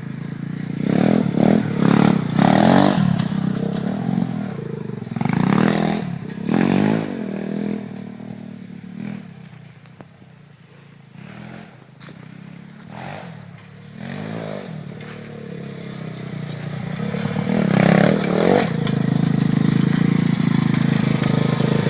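Dirt bike engine revving in repeated short bursts, rising and falling in pitch. It drops quieter about halfway through, then builds louder again near the end.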